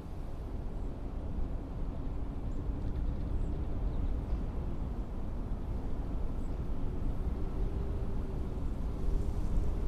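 Blizzard wind blowing as a deep, rumbling rush that swells in the first seconds and peaks near the end, with a faint wavering howl above it.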